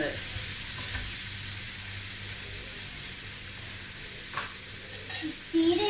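Chopped onion with crushed ginger and garlic sizzling in hot oil in a pan, a steady frying hiss, with two light clicks near the end.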